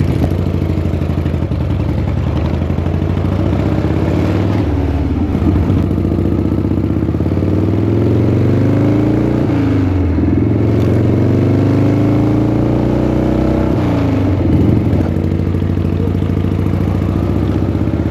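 Harley-Davidson Shovelhead V-twin motorcycle accelerating up through the gears. Its engine pitch climbs steadily, then drops sharply at each of three gear changes, about four and a half, ten and fourteen and a half seconds in.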